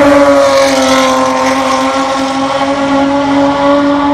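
Lotus Exige's supercharged 3.5-litre V6 running hard at high revs, its note held at a steady pitch.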